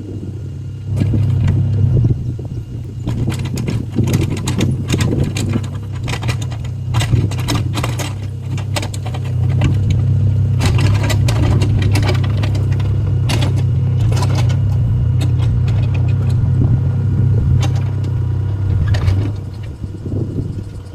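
Small excavator's diesel engine running under load, with frequent metallic clanks and rattles from the machine working crushed stone. The engine comes up about a second in and settles back down near the end.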